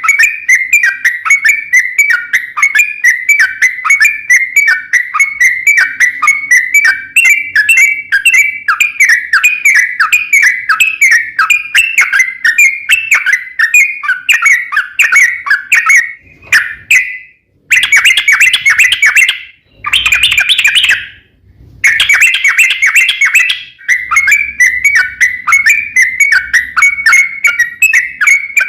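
Yellow-vented bulbul (trucukan) singing a long, fast run of quick chirping notes. The song breaks off suddenly three times for a moment about two-thirds of the way through.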